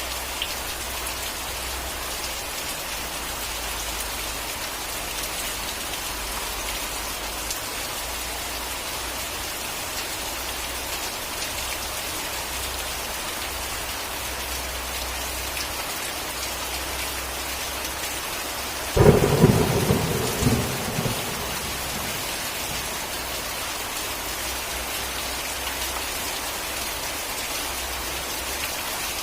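Steady rain falling, with a sudden loud thunderclap about two-thirds of the way through that rumbles away over about three seconds.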